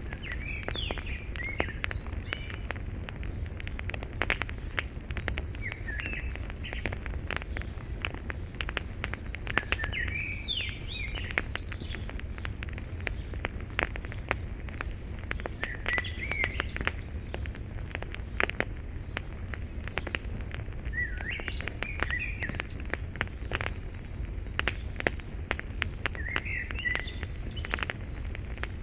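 Wood logs burning in an iron fire-pit bowl, crackling and popping with many sharp snaps over a low steady rumble. A bird sings a short phrase every five seconds or so.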